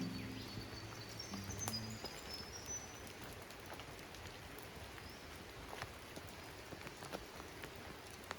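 Steady rain falling in a forest, with scattered individual drips hitting nearby surfaces. A few short, high bird chirps sound in the first few seconds, and background music ends about two seconds in.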